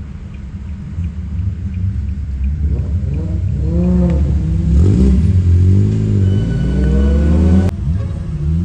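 Car driving with a steady low rumble; after a few seconds an engine revs up and down in several quick swells, which stop abruptly with a click and a drop in level near the end.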